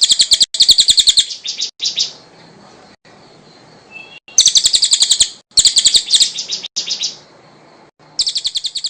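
Cililin songbird singing in bursts of rapid, high-pitched chattering trills, each about a second long, with short pauses between them.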